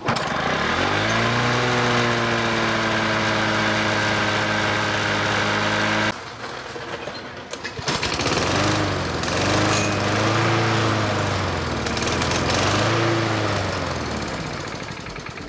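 Lawn mower engine starting, revving up and running steadily for about six seconds, then stopping abruptly. A mower engine then surges, its speed rising and falling three times before fading, the start-and-stop running of a mower with a fuel problem.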